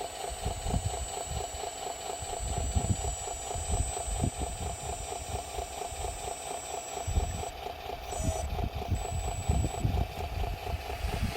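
Radio-controlled dump truck's sound module playing a diesel engine idling steadily, with a thin high whine that cuts out and returns near the end.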